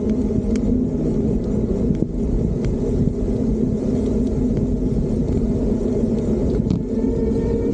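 Steady rumble of wind and road noise on the microphone of a moving electric bike, with a few faint clicks. A steady whine comes in near the end.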